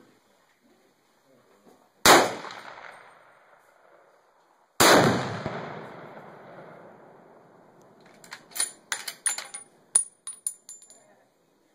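Two rifle shots about three seconds apart, each with a long rolling echo, aimed at a Tannerite target that does not go off because they miss. Near the end, a quick run of sharp metallic clicks and clinks.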